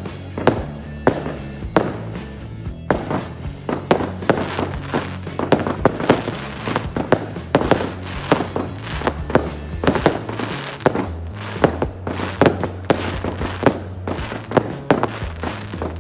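Fireworks going off in rapid bangs and crackles, mixed with background music that has a steady bass line.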